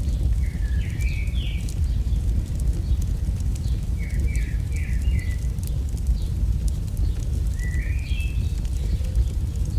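AI-generated campfire ambience: a steady low rumble of fire with light scattered crackles. Three short runs of rising bird chirps come in, near the start, about four seconds in and about eight seconds in.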